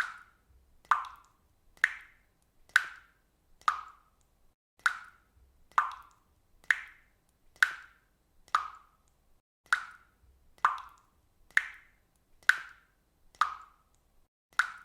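Water dripping: single drops plop at a steady pace, about one a second. Each plop is short and dies away quickly.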